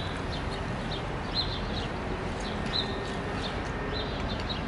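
Small birds chirping: short, high chirps repeating irregularly, several a second, over a steady low background rumble.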